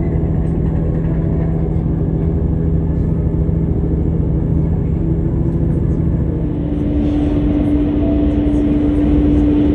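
Train engine running with a steady low rumble and hum; about two-thirds of the way in the hum changes to a higher steady pitch.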